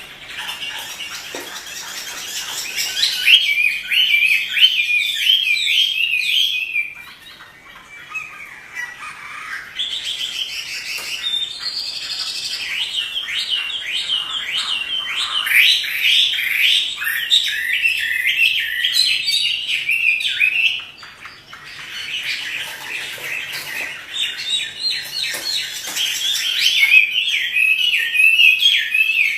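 Chinese hwamei singing long runs of fast, varied warbling phrases, breaking off briefly about a quarter of the way in and again about two-thirds through.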